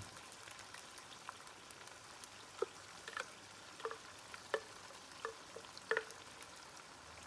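Chicken frying gently in oil in a karahi: a faint steady sizzle with scattered short splats and pops as blobs of blended green chilli and onion paste drop into the hot oil.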